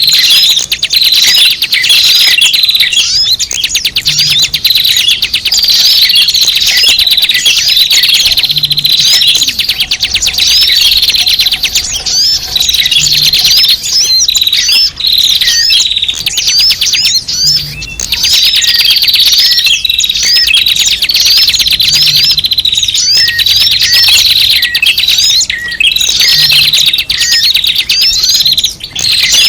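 Many small birds chirping and twittering all at once in a dense, unbroken chatter of high, quick notes. This is a lure call played to draw small birds in.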